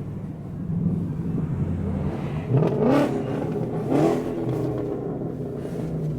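Ford Mustang GT V8 engine running with a loud exhaust, revved sharply twice, each rev rising and falling back within about a second.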